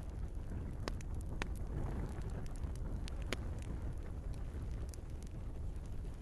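Wood fire burning in a fireplace: crackling logs with a handful of sharp pops, the strongest about three seconds in, over a steady low rumble of the flames.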